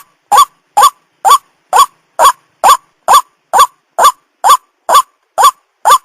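White-breasted waterhen (ruak-ruak) calling: a steady, evenly spaced series of short, loud rising notes, about two a second, repeated with machine-like regularity as a lure call.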